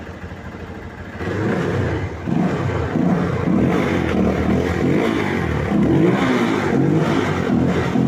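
Rusi Flash 150fi motorcycle engine running with a newly replaced crankshaft position sensor. It runs quietly at first, then from about a second in it is revved up and down repeatedly.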